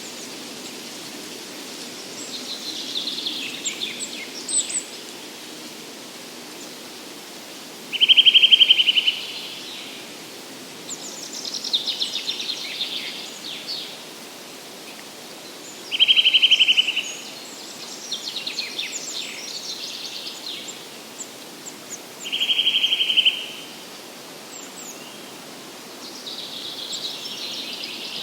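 A woodpecker drums three times, each a rapid, even roll about a second long, several seconds apart. Songbirds sing in between over a steady forest background.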